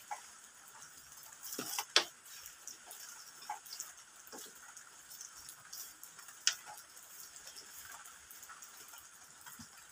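Raw bitter gourd being bitten and chewed: a scatter of sharp crunchy clicks, with a louder crunch about two seconds in and another about six and a half seconds in, over a faint steady hiss.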